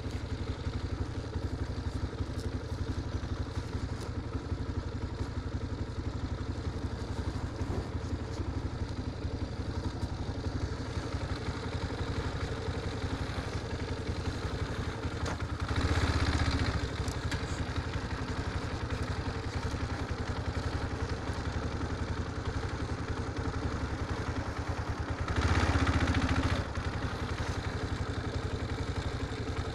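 Motorcycle engine running steadily while riding, with two louder stretches of about a second each, one a little past the middle and one near the end.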